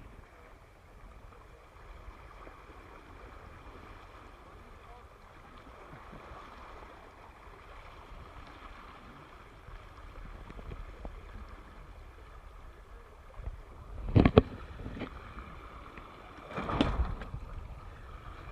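Dart 18 catamaran under sail: water rushing along the hulls and wind on the microphone, a steady noise. Two louder rushes come near the end, about 14 and 17 seconds in.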